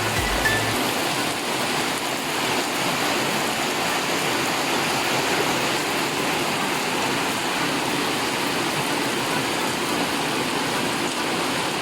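Steady morning rain shower falling on garden plants, an even hiss of rain.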